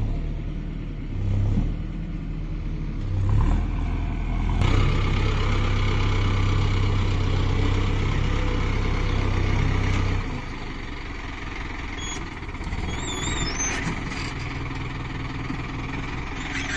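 Tractor diesel engine working under load, with short surges, then revving up about four and a half seconds in and holding there. About ten seconds in it drops back to a lower, quieter running.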